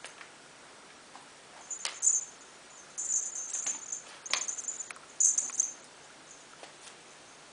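High-pitched animal squeaks in several short bursts, with a few sharp clicks among them.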